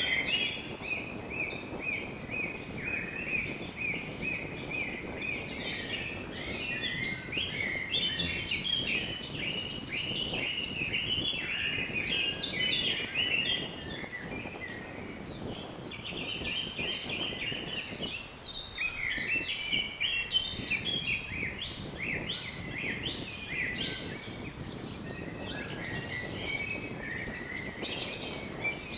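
Many small birds chirping and singing at once, a dense overlapping chorus of quick high notes, over a steady low rush of wind.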